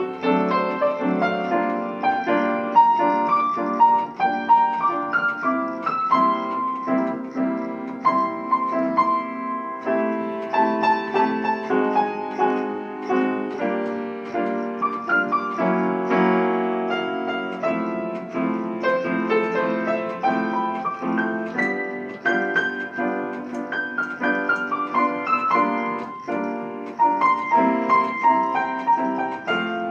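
Piano being played: a flowing piece of melody over chords, notes following each other without a break.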